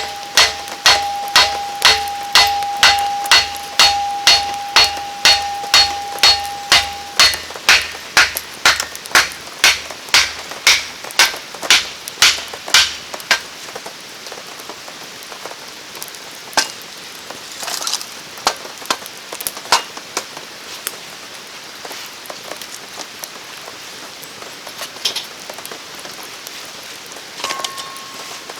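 Rapid, evenly paced metallic strikes, about two and a half a second for the first half, with a steady ringing tone under the first several blows, then they stop and rain patters steadily with a few sharp snaps.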